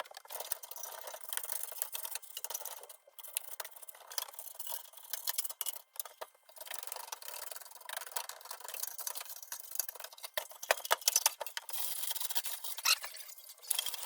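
Irregular rubbing and scraping by hand in short uneven strokes, with a run of sharp clicks and taps about ten to thirteen seconds in.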